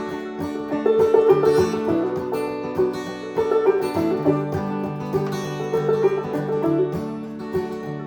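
A band playing an instrumental break between sung verses: plucked string instruments pick a busy melody over steady chords.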